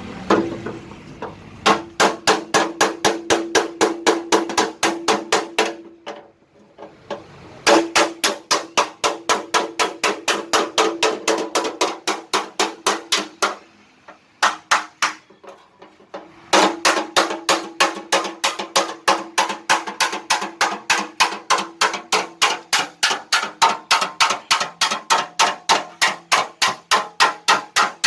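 Hand hammer beating a tractor's sheet-metal body panel in rapid even strikes, about four a second, each with a metallic ring. The strikes come in three runs, stopping briefly twice, after about six seconds and after about thirteen.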